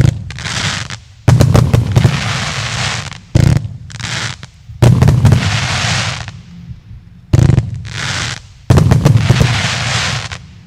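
A fan-shaped 49-shot consumer firework battery with 30 mm (1.2-inch) tubes firing in volleys. It goes off about six times, each a sharp launch bang, sometimes several in quick succession, followed by a second or two of fading hiss from the bursting effects.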